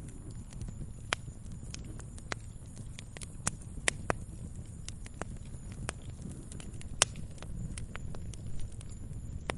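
Wood fire crackling in a fireplace: irregular sharp pops and snaps over a low, steady rumble of flames, with the loudest pop about seven seconds in.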